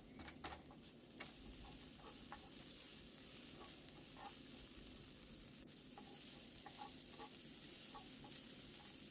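Onion, garlic, sun-dried tomatoes and pecans sizzling faintly in olive oil in a frying pan, with occasional light clicks of a utensil stirring them.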